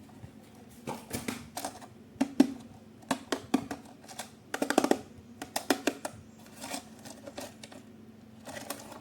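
Irregular clicks, taps and rattles of a plastic toy and its packaging being handled, with a quick run of clicks about halfway through.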